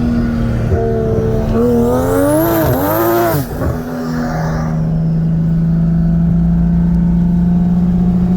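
Single-turbo BMW M4's built 3.0 straight-six heard from inside the cabin: it runs steadily, then about two seconds in is revved up and down in a few quick swells while a high whistle climbs over it, and from about halfway settles into a steady drone.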